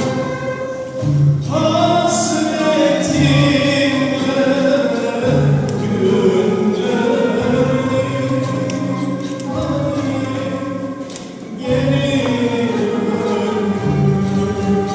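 Turkish art music song in makam Kürdilihicazkâr: sung melody with instrumental ensemble accompaniment, long phrases with a new phrase starting near the beginning and again near the end, over a low drum beat about once a second.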